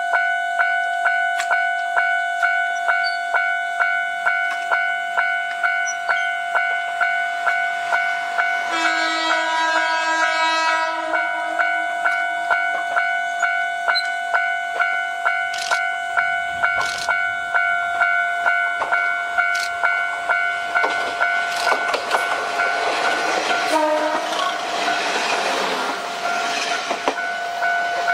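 Level-crossing alarm ringing in an even, steady ding-ding throughout, as a JNR-type diesel railcar approaches. The railcar sounds its horn once for about two seconds roughly nine seconds in. Its engine and wheels then pass loudly near the end, with clicks over the rail joints.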